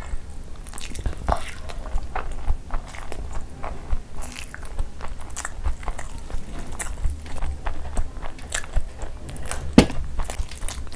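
Close-miked chewing of a mouthful of rice and curry, with wet mouth clicks and smacks, while fingers squish and mix soft khichdi on a banana leaf. One sharper, louder click comes near the end.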